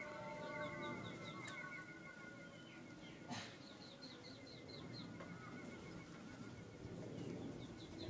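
Small birds chirping: runs of short, high chirps, about four a second, over a faint steady warbling trill, with one sharp click a little past three seconds in.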